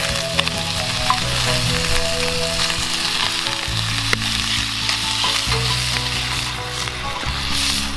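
Food frying in a hot pan over a campfire: a steady sizzle with scattered small pops of spattering fat. Soft background music with held notes plays underneath.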